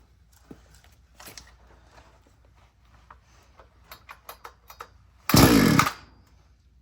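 Light clicks of handling on a Stark 6200 chainsaw, then one hard pull of its recoil starter on full choke, cold: the engine turns over for under a second, falling in pitch as the pull runs out, without starting.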